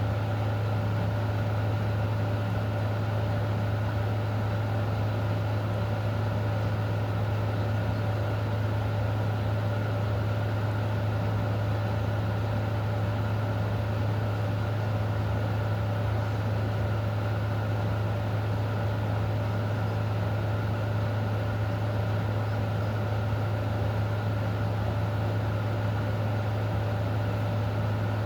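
A steady, unchanging low hum, with a faint hiss over it.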